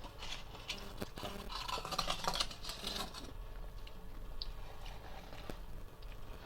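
Freezer frost being scraped, a dense scratchy rasping strongest in the second half of the first half, then a few light scattered clicks.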